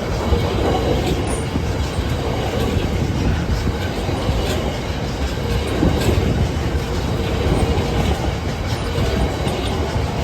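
Freight train behind two Class 66 diesel locomotives rolling past at close range: a steady, loud rumble of wagons with wheels clattering over the rails.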